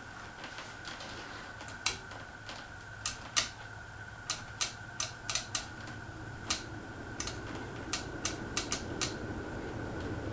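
Casablanca Panama 2 ceiling fan running with a steady low hum and a thin high whine, its air noise building through the second half as it picks up speed. Sharp, irregular clicks sound over it, about twenty in all.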